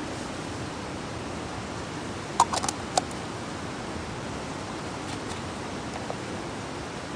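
A steady rushing noise with a quick run of about five sharp clicks a little over two seconds in, and a few faint ticks later.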